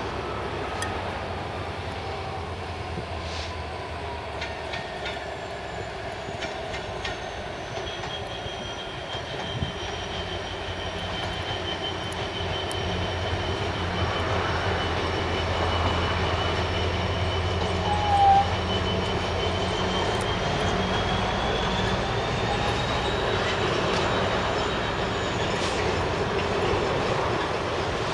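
Class 66 diesel locomotive, an EMD two-stroke V12, hauling a container freight train past, with a low steady engine drone under the rumble of the wheels. Wheel flanges squeal in long, thin, high tones that drift slowly in pitch. There is one short sharp squeak about 18 seconds in.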